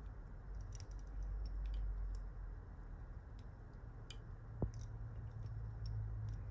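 Small, faint clicks and ticks of hands and tools working thread on a fly-tying vise, over a low steady hum, with one sharper click a little past the middle.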